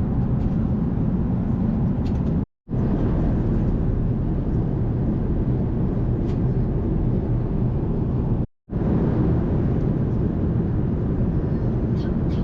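Steady low rumble of an Airbus A380 cabin in flight, engine and airflow noise. It cuts out twice for a fraction of a second.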